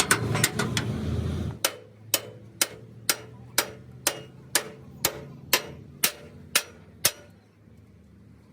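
A loud low rumble with a few sharp clicks cuts off about a second and a half in, followed by a steady series of about a dozen sharp knocks, about two a second, each with a short ring, stopping about seven seconds in.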